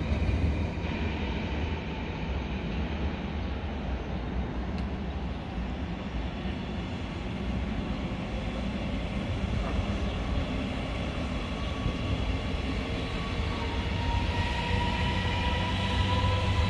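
A train running through a station with a steady low rumble; near the end several steady high tones join in and grow louder.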